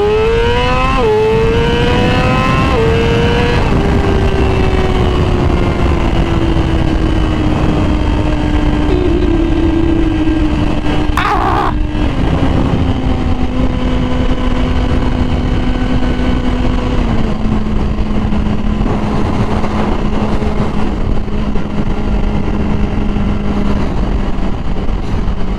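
Yamaha R6 inline-four sport bike with a Graves aftermarket exhaust, riding under heavy wind noise. The engine revs up through two quick upshifts in the first few seconds, then its pitch sinks slowly as the rider eases off, dropping in two further steps later on. There is a brief hiss about eleven seconds in.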